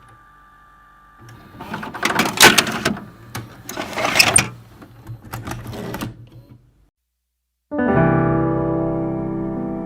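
A few seconds of crackling noise with several sharp bangs, then a brief silence, then piano chords that begin near the end and ring on.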